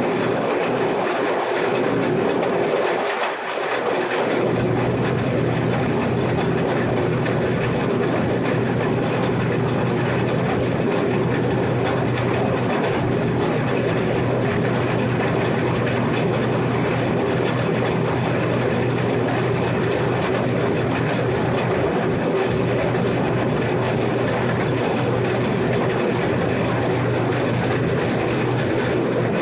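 Case IH 2388 combine running steadily while harvesting wheat: a constant mechanical din of engine and threshing machinery with a steady low hum.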